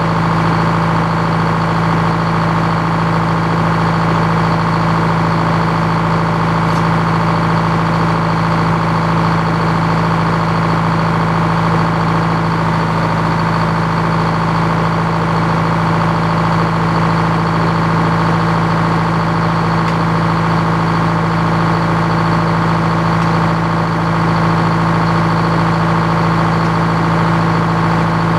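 Engine powering an antique Frick circular sawmill, running steadily at an even speed with a constant hum.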